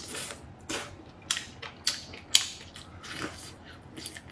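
A person chewing a piece of cooked seafood close to the microphone, with separate wet bites and chews about every half second.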